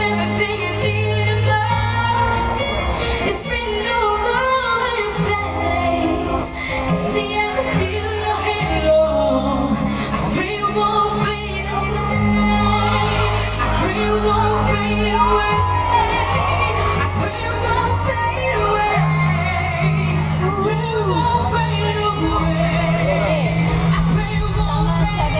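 A female singer sings a pop song live through a PA, with amplified accompaniment holding long bass notes beneath the voice.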